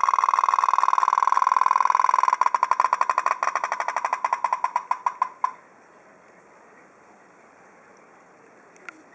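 Tin toy pop-pop boat's steam engine popping in a fast, steady rhythm. Then the pops break into separate, slower, uneven pulses and stop about five seconds in. A faint click comes near the end.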